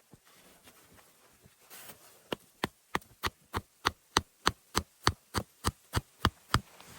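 A rapid, evenly spaced series of sharp knocks, about three a second and some fifteen in all, starting a couple of seconds in.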